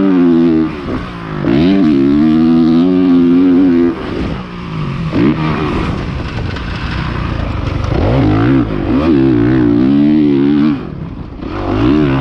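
Honda CRF450R's single-cylinder four-stroke engine being ridden hard, pulling in throttle bursts. It drops off the throttle briefly about a second in, for several seconds from about four seconds in, and again near the end.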